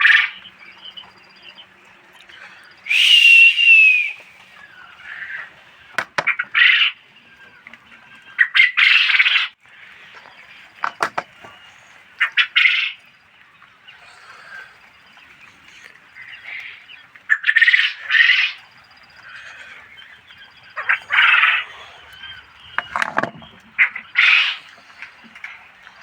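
A flock of caged quail calling: short, loud calls every second or two, one of them a falling whistle about three seconds in. A few sharp clicks or knocks sound among the calls.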